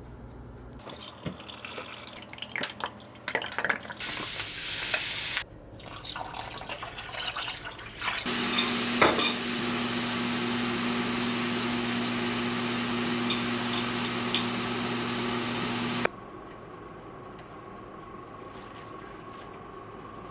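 Kitchen sink work: dishes and utensils clattering, a tap running briefly, then a steady rush of running water with a low hum for about eight seconds that cuts off suddenly.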